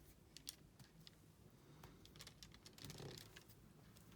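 Faint, irregular light clicks and taps of a diamond painting drill pen picking up small resin drills from the tray and pressing them onto the sticky canvas.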